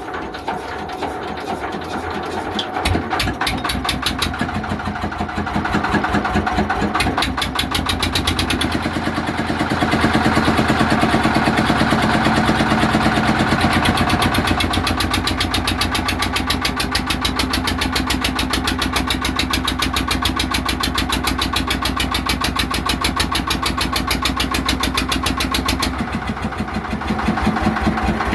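Old diesel engine starting. Its beats quicken and grow louder as it picks up speed over the first several seconds, then it runs with a steady, rapid chug.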